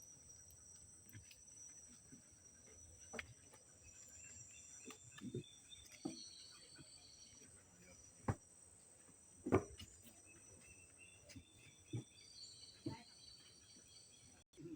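Insects chirring steadily at a high pitch, with a few short, faint high calls and scattered soft knocks and taps.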